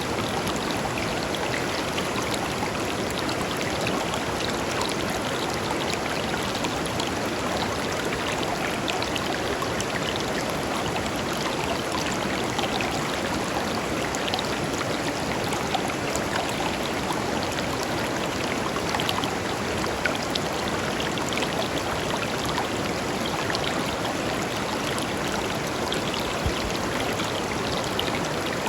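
A clear, shallow river flowing steadily over stones: a constant even rush of water with small splashes and trickles.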